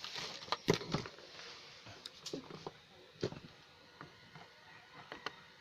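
Scattered light clicks and knocks of a small plastic mini Bluetooth speaker's casing being handled and opened up, a few seconds apart.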